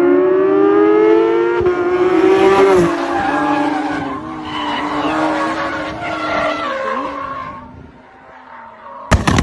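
A sports car's engine revving with a steadily rising pitch, which breaks off a second and a half in. Then two Porsche 911s accelerate on a race track, their engines fading away as they drive off over a crest.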